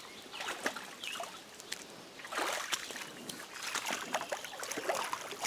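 Shallow stream water splashing and trickling, swelling in irregular sloshing surges with scattered sharp clicks.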